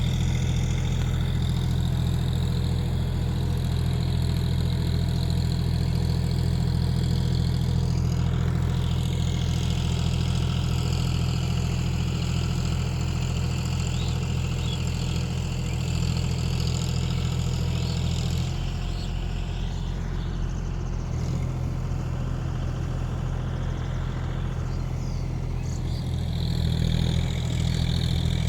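John Deere 5050D tractor's diesel engine running steadily at a low, even speed. It turns a little quieter for several seconds after the middle and picks up again near the end.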